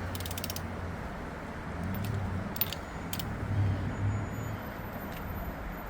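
Hand ratchet clicking in a quick run at the start, then a few separate metallic clicks, over a steady low hum.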